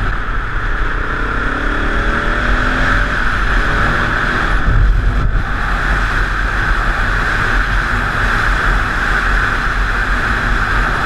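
Wind buffeting a GoPro Hero3 in its closed plastic housing on a moving motorcycle: a heavy low rumble and steady hiss that distort the recording and bury the engine. The engine's rising note comes through faintly for a couple of seconds early in the run, and a stronger gust hits about five seconds in.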